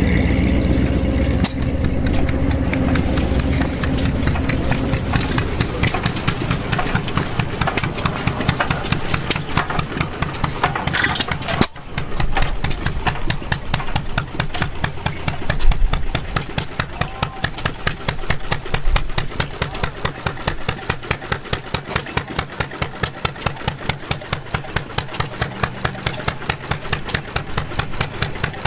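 Antique gas engines running. For the first twelve seconds a heavier engine runs with a low, steady drone. Then, after a sudden break, an engine fires with an even, regular exhaust beat.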